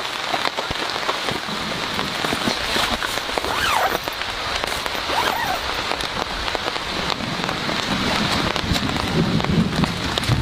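Heavy rain falling steadily, a dense hiss with many separate drop hits.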